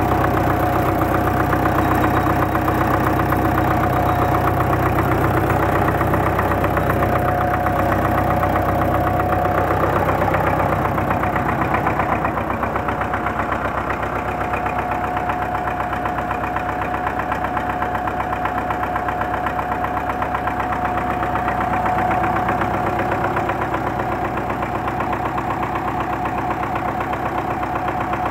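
D-243 four-cylinder diesel engine running steadily on its freshly repaired and bled fuel injection pump. About twelve seconds in it drops slightly in level and settles into a steadier, duller run.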